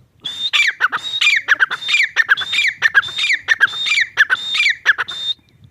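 Irani teetar (francolin) calling: about seven loud phrases in quick succession, each a held high whistle dropping into short falling notes, stopping a little before the end.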